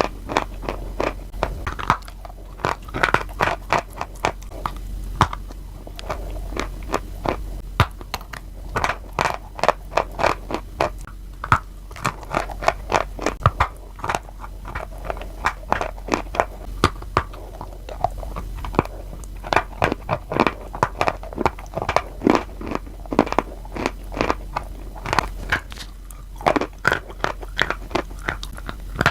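Close-up crunching and chewing of crunchy food, dense irregular crunches several times a second.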